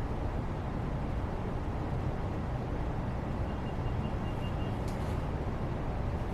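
Steady low background noise, a rumbling hiss heavy in the bass, with a few faint high ticks and a small click about five seconds in.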